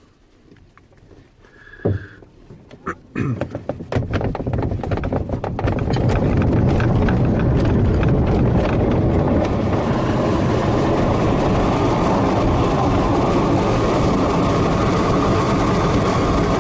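Winch launch of a DG-300 glider heard from inside the cockpit. A knock comes about two seconds in, and rattling and clattering of the ground run start about a second later. From about six seconds a loud steady rush of air and rumble runs on as the glider climbs, on a launch that is much too fast.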